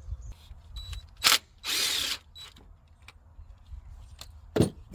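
Cordless drill driving a socket on a 3/8 adapter, spinning briefly twice to run carburetor nuts off, with small metallic clicks and a knock near the end.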